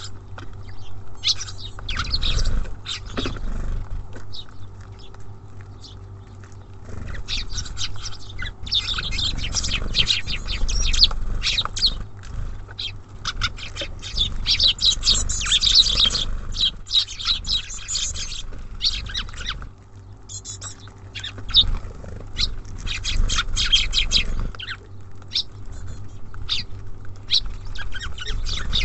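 Small songbirds at a bird feeder chirping, many short overlapping calls coming thick and fast, busiest in the middle, over a low rumble.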